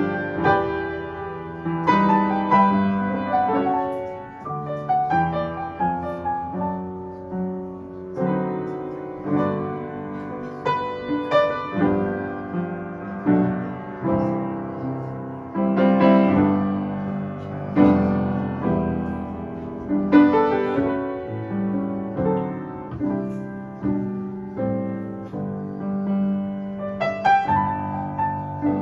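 Solo piano music: chords and melody notes struck and left to ring, with a slow, unhurried pace.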